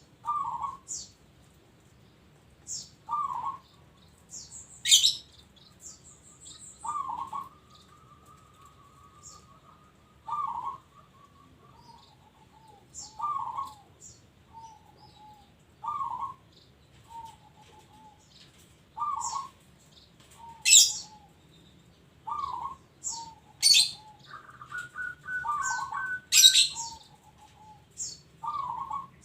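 Zebra dove (local perkutut) cooing its song over and over, about every three seconds. Each phrase is a strong opening note followed by a run of softer, lower coos. Sharp high chirps from other small birds come in between and are the loudest sounds.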